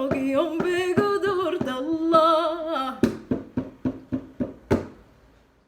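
A female voice sings the held, wavering last phrase of a Sudanese song in Arabic over steady percussion strikes. The voice stops about three seconds in. A run of percussion hits follows, ending on a stronger last hit, and the sound fades out.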